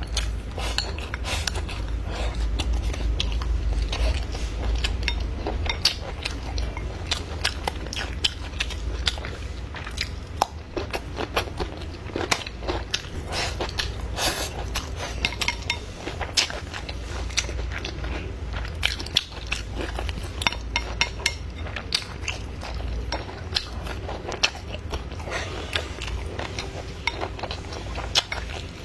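A person eating close to the microphone, biting and chewing food with many small, irregular wet and crisp clicks, over a steady low rumble.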